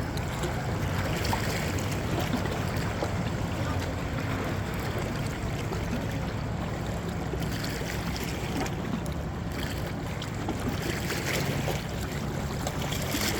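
Steady low drone of a boat underway, with the wash of water and wind noise.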